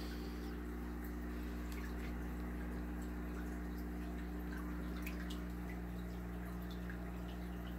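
Aquarium filtration running: a steady low hum with water trickling and faint drips.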